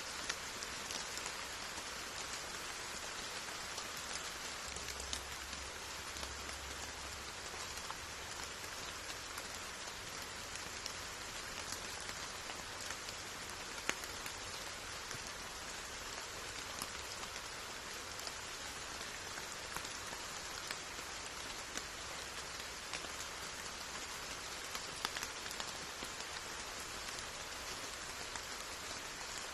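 Steady rain falling, an even hiss with scattered louder drops striking surfaces close by.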